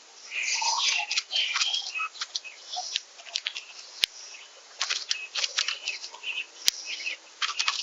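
Small songbirds chirping in many short, quick high calls, with two sharp clicks about four and six and a half seconds in.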